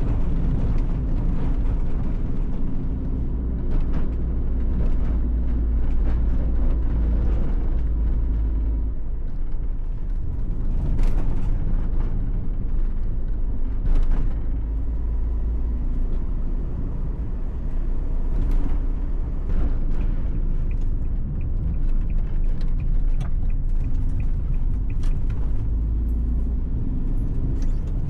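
Suzuki Every kei van on the move: a steady low rumble of engine and road noise.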